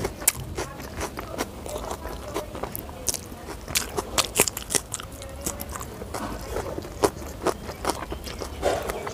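Close-miked eating: chewing and biting with wet mouth clicks and smacks, and crunchy bites of raw green chilli around the middle.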